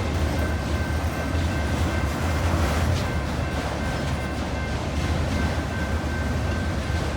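Union Pacific autorack freight train rolling past: a steady low rumble of wheels on rail, with a faint steady high whine.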